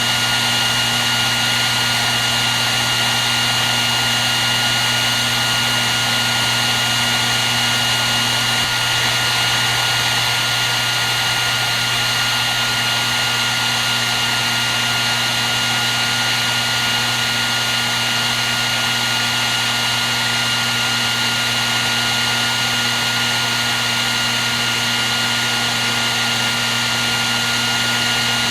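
Hair dryer running steadily: an even rush of blown air with a steady high whine and a low motor hum underneath, unchanging throughout.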